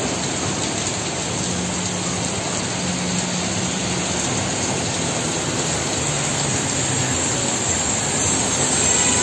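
Heavy rain pouring onto a flooded road: a steady, dense hiss of drops splashing on standing water.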